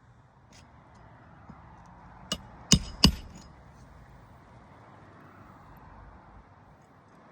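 Three sharp hammer blows in quick succession, the last two loudest, with a metallic ring: roofing nails being driven to fasten a new asphalt shingle.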